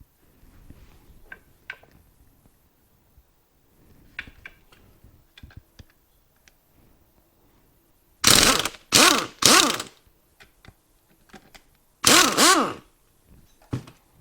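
Pneumatic impact wrench run in three short bursts about eight seconds in and one longer burst about twelve seconds in, its pitch swinging as it hammers, loosening the bottom bolt of a motorcycle fork leg with the spring pressure still on. Before that, light clicks and knocks of handling.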